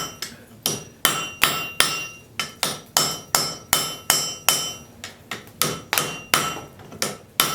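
Hand hammer striking a hot railroad spike on an anvil, about two to three blows a second in a steady rhythm, each blow ringing briefly. The smith is upsetting the spike's end at a dull orange heat.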